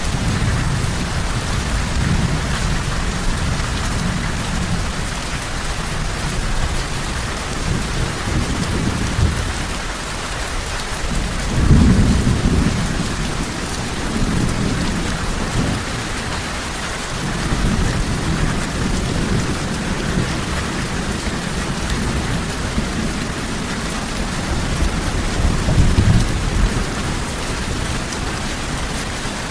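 Steady heavy rain with rolling thunder: low rumbles swell and fade several times, the loudest about twelve seconds in.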